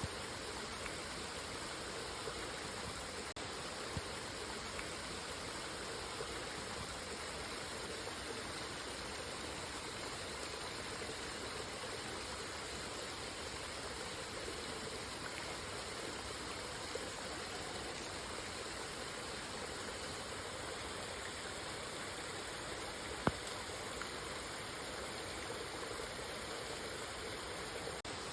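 Steady rain falling, an even hiss of many drops, with a few louder single drips or taps. The sharpest of these comes late on.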